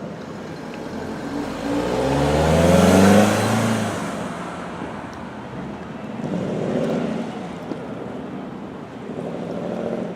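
Ford Mustang 5.0 V8 accelerating past, its engine note rising in pitch, loudest about three seconds in, then fading away. Two quieter engine swells follow, one past the middle and one near the end.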